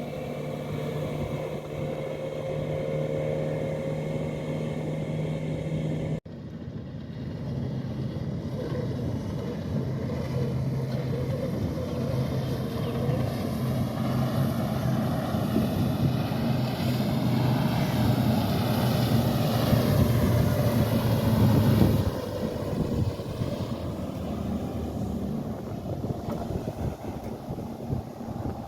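Motorboat engines running as boats pass close by, the engine sound building to a peak and then cutting off abruptly near the end. Wind buffets the microphone.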